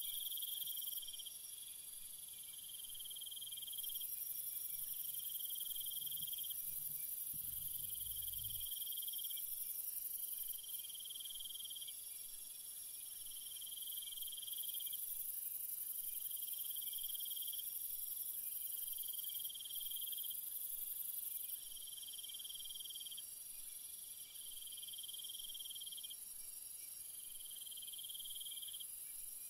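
Night jungle ambience of insects chirring: a steady high-pitched drone with a lower insect call pulsing on and off about every two seconds. A faint low rumble comes in about six to eight seconds in.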